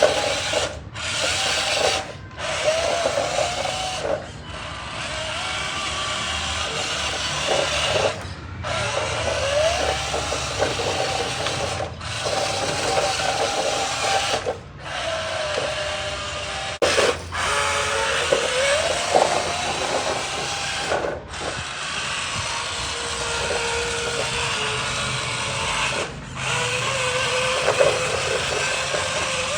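A small electric motor whirring, its pitch wavering up and down as it speeds up and slows, with repeated brief cut-outs.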